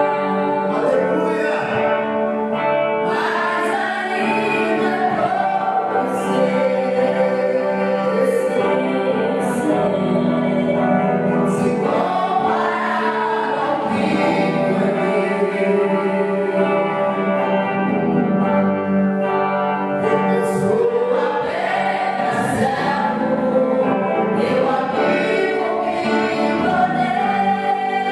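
Gospel worship music: a group of voices singing a hymn together over sustained instrumental backing.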